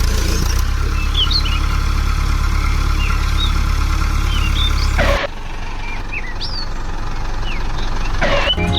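A small engine running steadily at idle with a fast even pulse, with short bird chirps over it. The sound cuts abruptly about five seconds in and carries on a little quieter.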